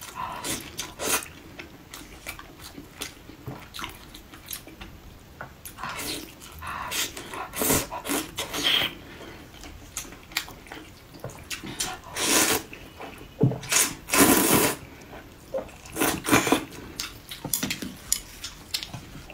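Close-miked eating sounds: wet chewing, lip smacks and mouth clicks on a bite of braised meat, with a cluster of louder wet bursts about two-thirds of the way through.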